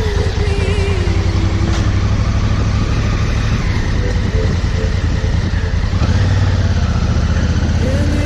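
Honda CRF1000L Africa Twin parallel-twin engine running steadily on the move, with loud road and wind noise.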